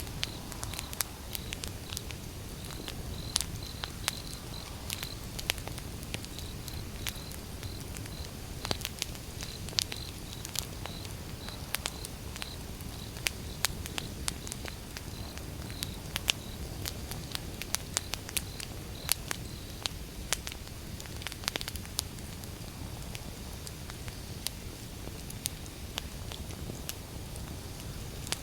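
Wood fire burning, crackling with irregular sharp pops over a low steady rumble. A faint high chirp repeats about three times a second and stops about two-thirds of the way through.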